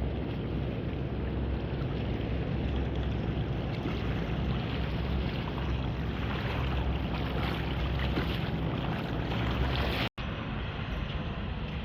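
Boat motor running steadily on the river, with wind buffeting the microphone. The sound cuts out for an instant about ten seconds in, then carries on a little quieter.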